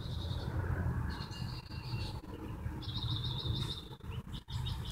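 Birds chirping in quick, high-pitched trills, several short runs one after another, over a low steady rumble.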